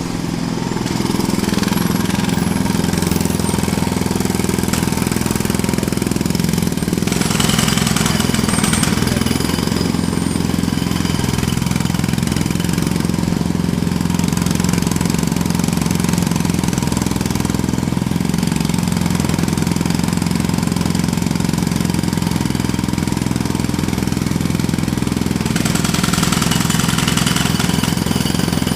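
Jackhammer starting abruptly and hammering continuously over a steady low hum. The sharper high chatter gets louder about seven seconds in and again near the end.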